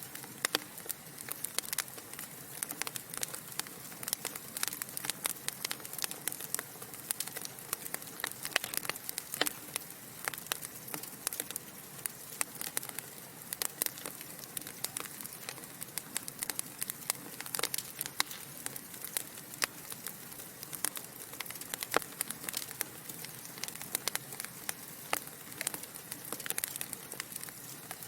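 Log fire in a fireplace crackling steadily, with many quick sharp pops and snaps over a soft hiss.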